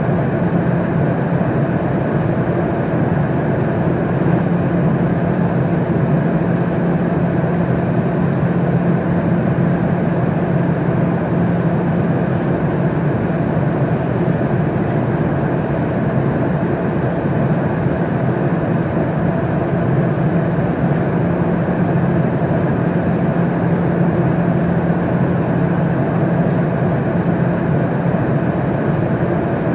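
Airplane cabin noise in flight: a steady, even rush of air and engine sound with a constant low hum, unchanging throughout.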